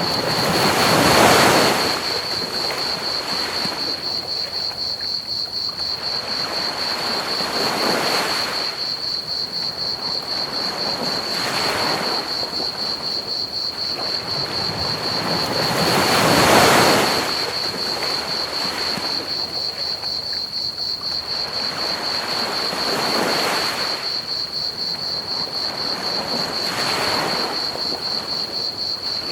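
Ocean waves breaking on a beach, a swell every few seconds, the biggest about a second in and again near the middle. A steady high cricket trill and a constant bed of pink noise run underneath.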